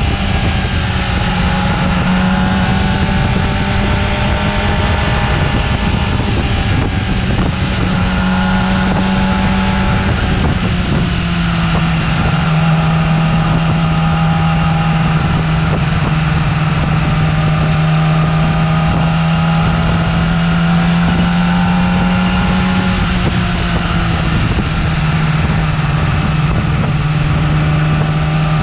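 Yamaha R6 inline-four engine on its stock exhaust, running at steady high revs. About eleven seconds in the pitch steps down a little and then holds steady.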